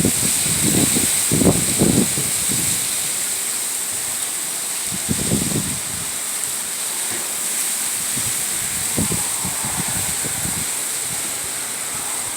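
Strong gusty wind rushing steadily, with low rumbling buffets of wind on the microphone in the first two seconds, again around five seconds in and around nine seconds in.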